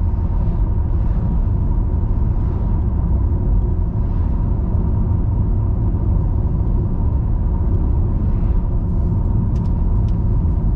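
Car driving on a road: steady low rumble of tyres and engine, with a faint constant hum, and a couple of small clicks near the end.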